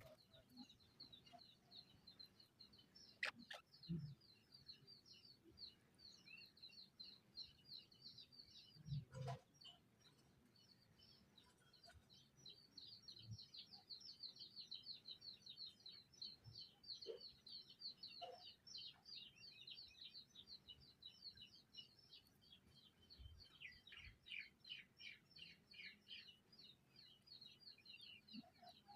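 Birds chirping faintly in a fast, unbroken run of high chirps. A few soft knocks sound during the first third.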